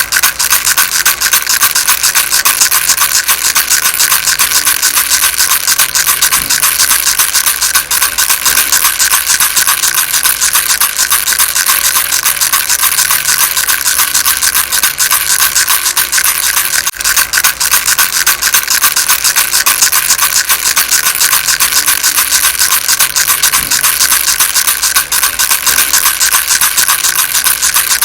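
Baby rattle shaken steadily, giving a fast, dense, unbroken rattling of small beads.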